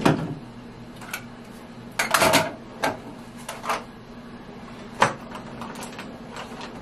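Small household items and a cabinet being handled while tidying: a knock at the start, a short clatter about two seconds in, and a sharp knock about five seconds in, with lighter clicks between.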